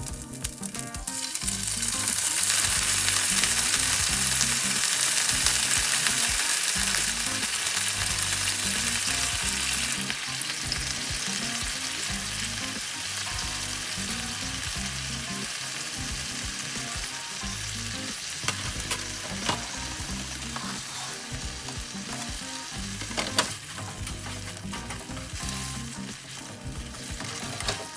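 Food sizzling in a hot frying pan as it is stirred, with a few light taps of a utensil on the pan. The sizzle jumps up about two seconds in, as if food has just gone into the hot pan, then slowly eases off.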